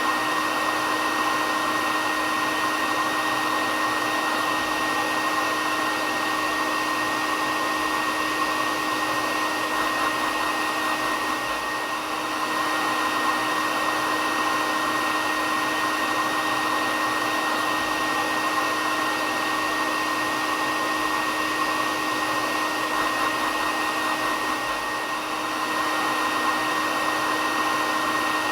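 Hair dryer running steadily: an even blowing hiss with a fixed motor whine, dipping slightly in level twice.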